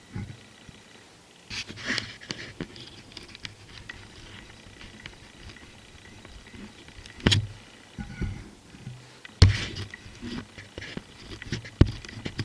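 Scattered clicks and knocks of tools and parts being handled, with single sharp knocks about two, seven and nine seconds in.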